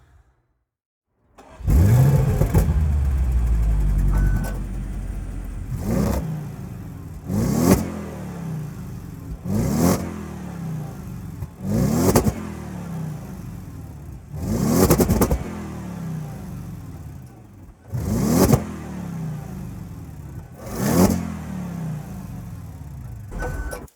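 Car engine idling and revved in quick blips, about one every two to three seconds, each a short rise and fall in pitch. It starts abruptly about a second and a half in, after a moment of silence.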